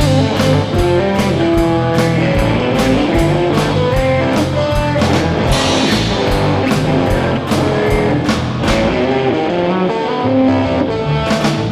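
Live band playing an instrumental break in a rockabilly song: electric guitar lead over walking bass and a drum kit keeping a steady beat.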